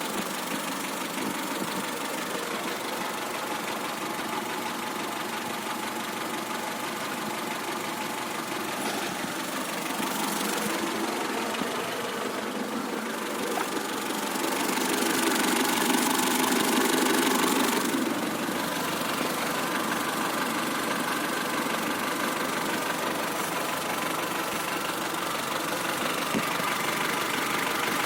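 ZAZ Tavria's engine running steadily, growing louder for a few seconds past the middle and then dropping back.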